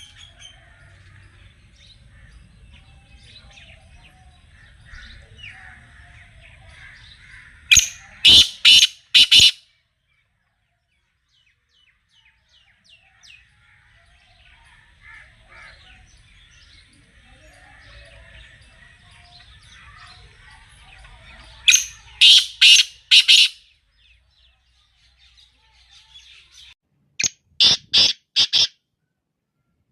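Black francolin calling: three loud phrases of about five quick notes each, near 8 s, 22 s and 27 s in, over faint chirping of smaller birds.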